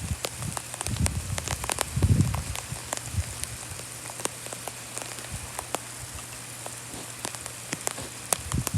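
Large raindrops of an arriving thunderstorm hitting close by: many sharp, separate ticks over a steady rain hiss. A few low rumbles come about one and two seconds in and again near the end.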